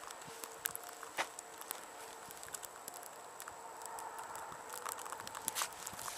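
Footsteps crunching in deep snow: scattered soft crunches and clicks.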